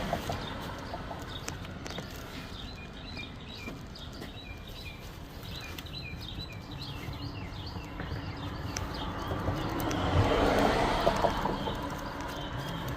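A small bird sings a quick run of short, repeated high chirps for several seconds over steady outdoor background noise. About ten seconds in, a broad rushing sound swells and then fades.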